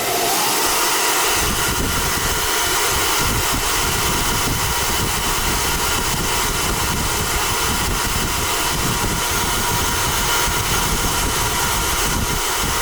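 Hair dryer running steadily, with a short rising whine as it spins up at the start and a low rumble joining about a second in: hot air blowing on a back-plate sticker to loosen its adhesive.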